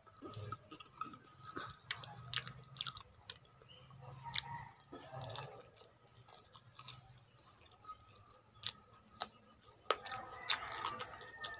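Close mouth sounds of someone chewing and gnawing on adobo-braised chicken feet: wet smacks and many sharp little clicks, coming thickest near the end.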